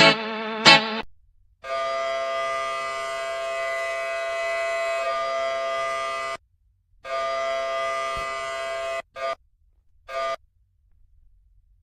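A steady horn- or buzzer-like tone with many overtones, held at one pitch for about five seconds, then again for two seconds, then two short blips.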